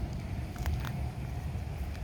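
Low, steady outdoor rumble, like wind on the microphone, with two short clicks a little over half a second in.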